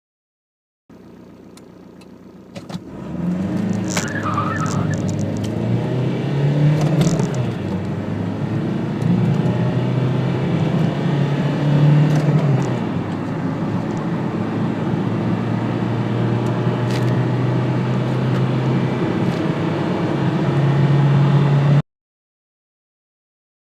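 Volkswagen Polo Mk3's four-cylinder engine in a full-throttle acceleration run from a standstill. After a short steady stretch, the engine note climbs and drops back several times as it is taken up through the gears. It cuts off abruptly near the end.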